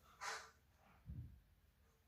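Near silence: room tone, broken by a short faint hiss about a quarter second in and a faint low thump about a second in.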